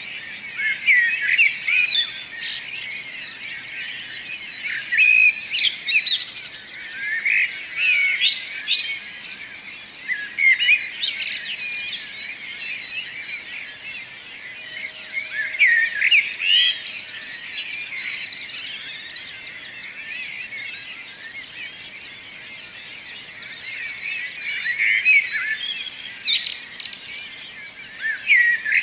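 Several birds singing at once in a dense chorus of overlapping chirps and trills, with louder phrases standing out every few seconds.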